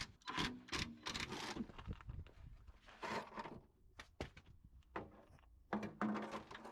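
Scattered clicks, knocks and scraping as hand tools and metal suspension parts are handled.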